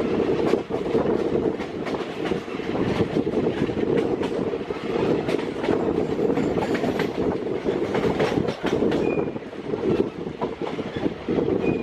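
Passenger train coaches running along the track, heard from on board: a steady rumble with wheels clattering over rail joints and scattered sharp clicks.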